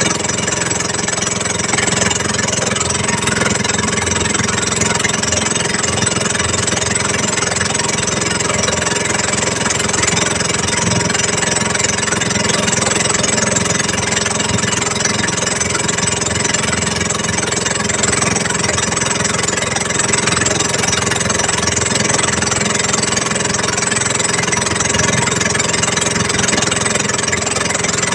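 A small engine running steadily at an even speed, loud and unchanging throughout.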